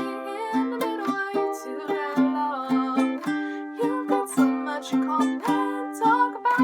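Ukulele playing a steady picked chord pattern, about three plucked notes a second.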